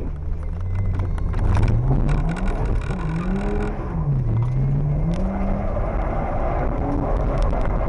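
Nissan Skyline engine heard from inside the cabin while being driven hard, the revs rising and falling several times under steady road and wind noise.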